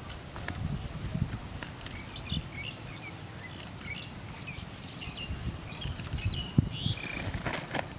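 Small birds chirping in quick repeated short notes, over rustling, clicks and soft thumps of fish being picked out of a cast net on grass, with one sharper thump near the end.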